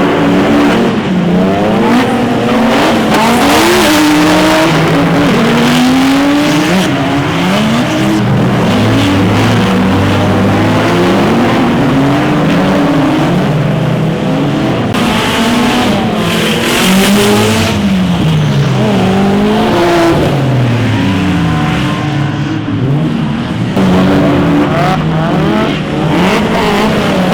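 Drift cars' engines revving hard, several at once, their pitch climbing and dropping over and over with throttle and gear changes as they drift, with some tire noise under them.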